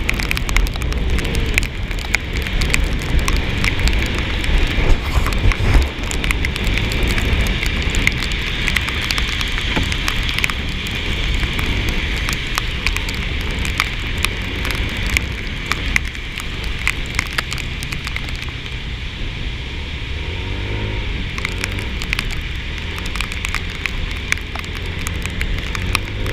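Rain spattering in dense, sharp ticks over a steady rumble of wind and motion while riding a Yamaha NMAX scooter in the rain.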